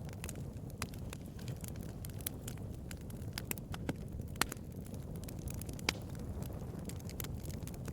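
Bonfire crackling: a steady low rumble of burning wood with irregular sharp pops and snaps, a couple of louder pops about halfway through.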